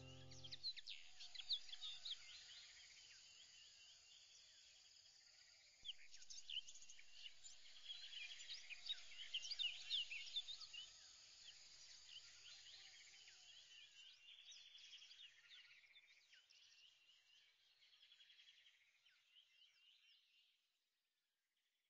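Faint chorus of birds chirping, many quick high chirps overlapping, growing busier about six seconds in and fading away near the end. The last notes of background music die out in the first second.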